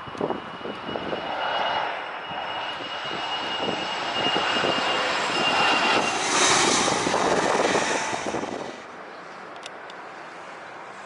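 Jet airliner passing low overhead on landing approach: engine noise with a steady high whine that builds to a peak, then cuts off suddenly about nine seconds in.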